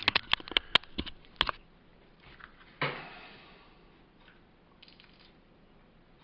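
A quick run of about eight sharp clicks and taps of hard tools on hard surfaces while filler is being worked, then one louder knock with a short ring about three seconds in, followed by a few faint taps.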